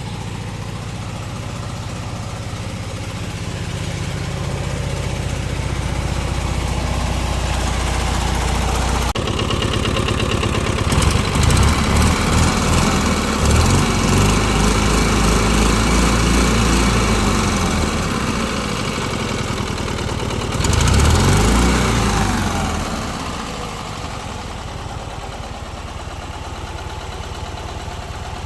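Classic Fiat 500's small air-cooled two-cylinder engine running. It is steady at first, then changes abruptly about nine seconds in to a louder, uneven sound that rises and falls in pitch. It jumps again about two-thirds through and settles quieter near the end.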